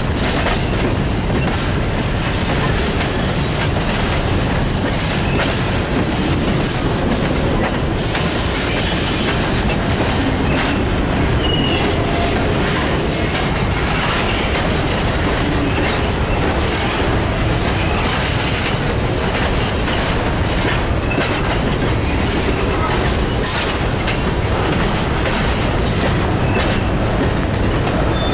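Freight train of covered hopper cars rolling past close by: a steady rumble of steel wheels on the rail, with clicks as the wheels cross rail joints and a few brief wheel squeals.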